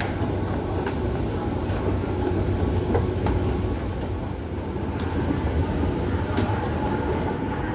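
Metro train running, heard from inside the passenger car: a steady low rumble and hum with a few light clicks.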